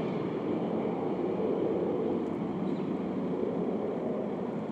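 Freight train cars (tank cars and covered hoppers) rolling past on the near track: a steady rumble of steel wheels on rail.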